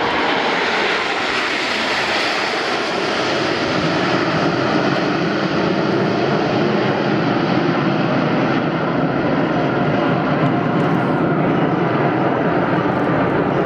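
Aermacchi MB-339 jet aircraft passing in flight: a loud, steady engine rush whose high hiss fades about two seconds in.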